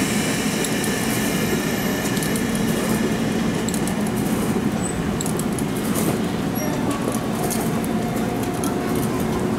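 Kintetsu electric train running close by: a steady rumble of wheels on rail with scattered clicks, and a faint steady tone joining near the end.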